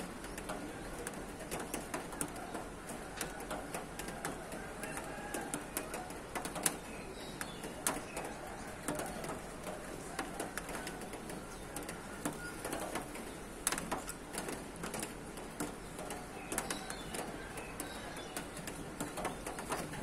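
Several birds calling and singing over one another after rain, with scattered sharp clicks, the loudest about six and a half seconds and fourteen seconds in.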